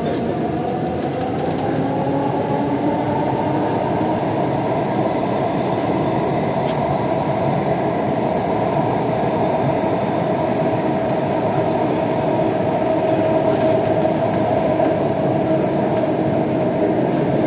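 Kolkata East-West Metro train running between stations, heard from inside the car: a steady rumble of wheels and running gear with a motor whine that rises in pitch over the first few seconds, then holds.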